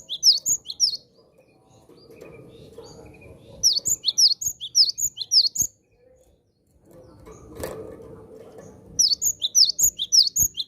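Cinereous tit (gelatik batu) calling in three quick bouts of sharp, high chirps, one at the start, one about four to five and a half seconds in, and one near the end. Faint low background noise and a single knock fill the gaps between bouts.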